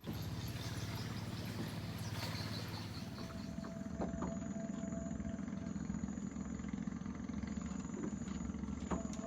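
Small boat engine running steadily with a low, pulsing rumble, over a thin high steady whine.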